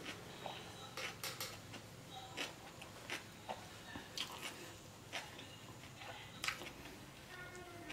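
Close-miked chewing of a mouthful of beef burger: irregular wet mouth clicks and smacks, a few every second.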